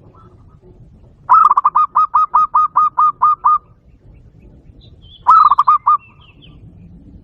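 Zebra dove calling: a fast, even run of about a dozen short cooing notes lasting about two seconds. A shorter run of about five notes follows a couple of seconds later. Faint higher chirps from another small bird come around the second run.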